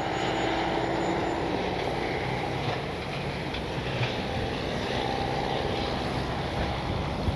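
Strong wind buffeting the microphone, mixed with the steady whine of the E-flite Piper Cherokee RC airplane's electric motor and propeller in flight.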